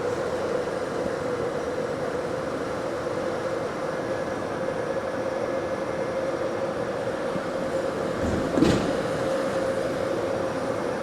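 Steady running noise inside a moving bus, with a constant mid-pitched hum, and one thump about eight and a half seconds in, as over a bump in the road.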